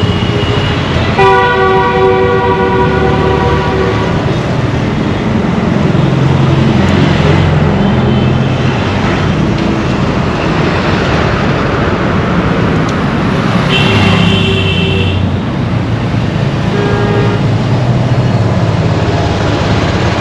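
Dense road traffic with engines running and repeated vehicle horns: one long horn blast about a second in that lasts nearly three seconds, then shorter honks about eight, fourteen and seventeen seconds in.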